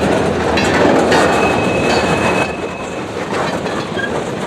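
Railroad cars rolling past on the rails, a steady rumble with clickety-clack from the wheels and a thin high squeal that lasts about two seconds early in the passage.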